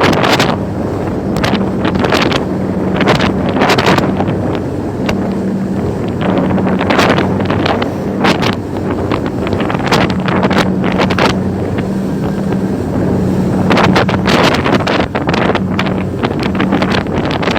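Strong wind buffeting the microphone in gusts, over the steady drone of a boat engine.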